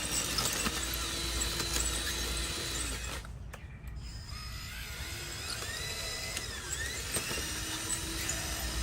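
Whine of small electric motors and geared drives on radio-controlled model construction machinery. It holds a steady hum at first, then rises and falls in pitch as the motors speed up and slow, and settles back to a steady hum near the end.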